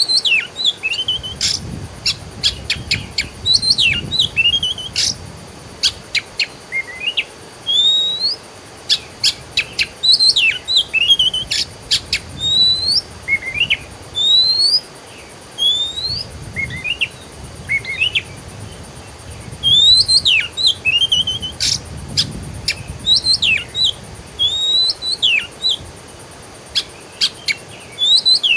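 Songbirds chirping and calling nonstop: many short rising whistled notes and sharp chips, with a soft low rumble swelling and fading underneath.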